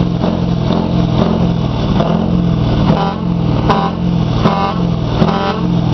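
Scania engine running steadily with a deep, even note.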